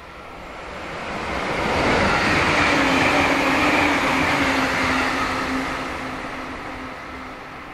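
JR electric train passing at over 100 km/h: the rush of wheels on rail swells to a peak about two to four seconds in, then fades away. A steady low hum comes in during the loudest part and carries on as the train recedes.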